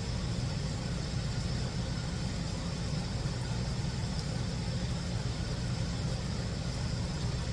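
A steady low rumble, like a vehicle engine idling.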